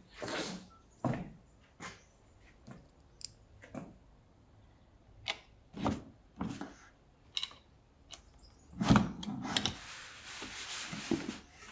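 Objects being handled: irregular knocks and clicks with some rubbing, a louder knock about nine seconds in, then a longer rustling scrape near the end.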